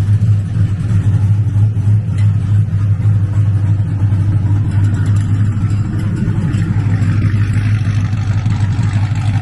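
Cadillac V's engine running steadily with a deep, even exhaust note, on a freshly redone exhaust with new mufflers and a welded-in X-pipe.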